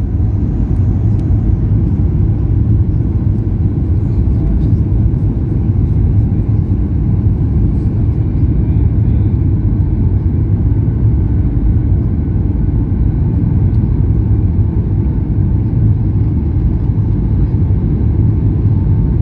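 Passenger airliner on its landing approach: a steady low rumble of engines and airflow with no change in level.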